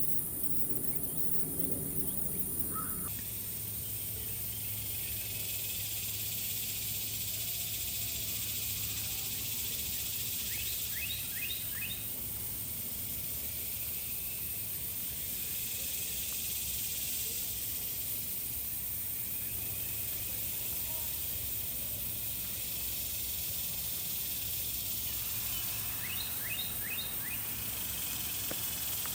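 Outdoor summer ambience: a steady high insect hiss that swells now and then. A bird gives a short run of quick chirps twice, about eleven seconds in and again near the end.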